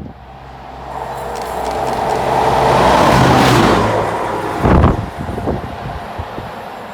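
A vehicle passing by: its noise swells to a peak about three seconds in and then fades, over a steady low hum. A short low thump comes just before five seconds in.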